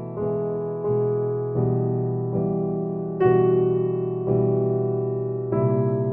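Background music: slow, gentle piano chords, a new one struck about every second and left to fade.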